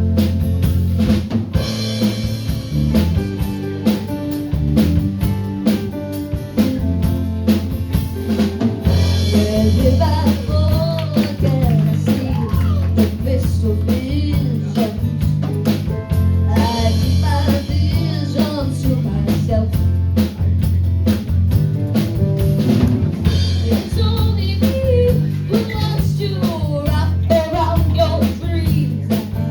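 Live rock band playing: drum kit keeping a steady beat under bass and electric guitar, with a singer's voice coming in about ten seconds in.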